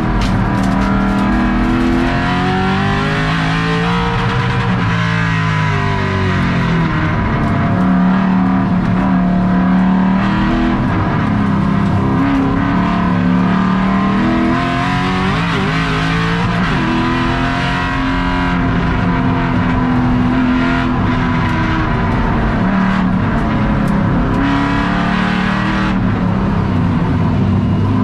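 Race car engine heard from inside the stripped, roll-caged cockpit while lapping a track. The revs repeatedly climb and fall through acceleration, gear changes and braking for corners.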